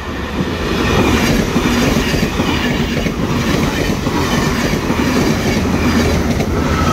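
Passenger train passing over a level crossing at close range: a loud, steady rush of wheels on rail with clickety-clack. It builds over the first second as the train arrives, then holds.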